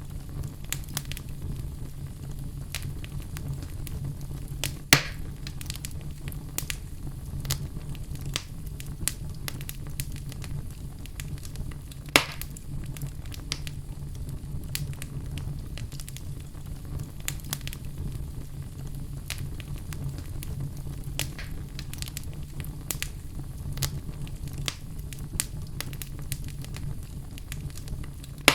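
Fire crackling: a steady low rumble with frequent small crackles and pops, and two louder pops, about five seconds in and about twelve seconds in.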